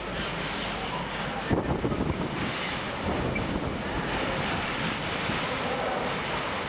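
Long freight train of wagons loaded with new rails rolling past, a steady rushing rumble of wheels on track, with a short run of louder knocks about a second and a half in. Wind buffets the microphone.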